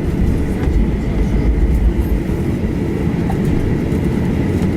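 Boeing 737-800 cabin noise while taxiing after landing: a steady low rumble of the wheels rolling over the taxiway with the CFM56 engines at idle, and a faint steady whine above it.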